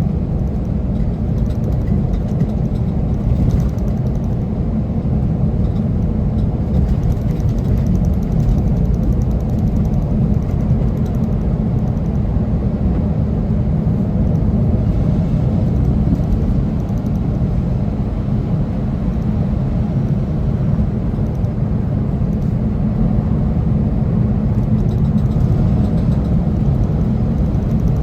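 Semi truck driving: a steady, unchanging low rumble of engine and road noise.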